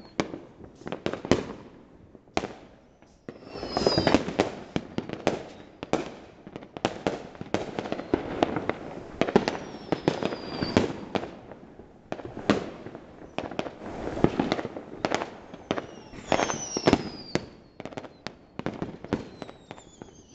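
Neighbourhood fireworks and firecrackers going off in a dense barrage of overlapping bangs, with several whistling fireworks that fall in pitch.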